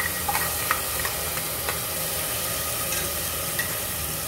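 Onion, garlic, ginger and green chilli paste sizzling steadily as it lands in hot mustard oil in a pressure cooker. A few light knocks come in the first couple of seconds as the paste is tipped out of the grinder jar.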